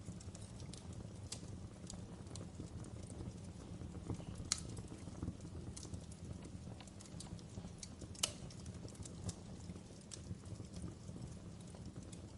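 Log fire burning in a fireplace: a steady low rumble with scattered sharp crackles and pops, two of them louder, about a third and two thirds of the way through.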